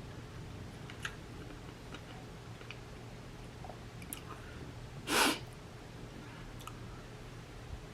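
Eating sounds: faint mouth clicks and chewing. About five seconds in comes one short, loud noisy burst, such as a slurp or sniff.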